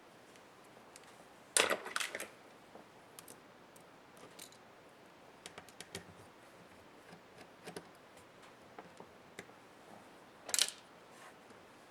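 Small clicks and clacks of hand tools and laptop parts being handled during disassembly. A loud cluster of knocks comes about a second and a half in and a single loud clack near the end, with light ticks in between.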